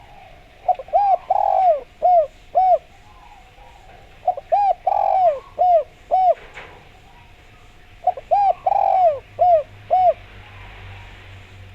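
Spotted dove (derkuku) cooing: three phrases of about five or six short arched coos each, one coo in the middle of each phrase held longer, the phrase repeating about every three and a half to four seconds.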